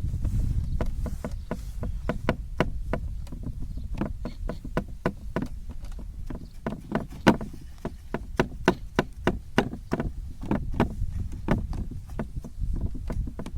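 Irregular sharp taps and knocks, several a second, from kunafa dough being worked and pressed down into its pan by hand, over a low rumble.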